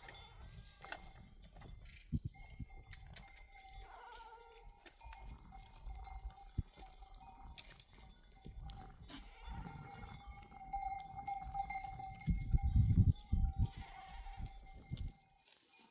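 Bells on a grazing flock of sheep and goats clinking and ringing in a steady jumble. Bursts of low rumble, loudest about three-quarters of the way through.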